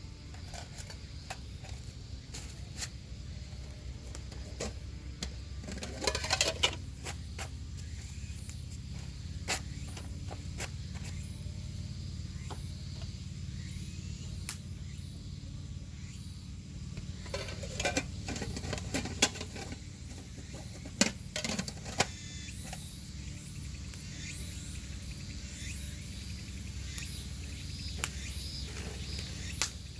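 Wood fire crackling in a campfire stand: scattered sharp pops over a steady low rumble, busier about six seconds in and again around twenty seconds.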